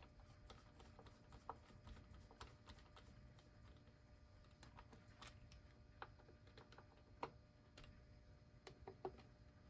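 Faint, irregular small clicks and taps of a screwdriver driving a screw into a clock's back plate.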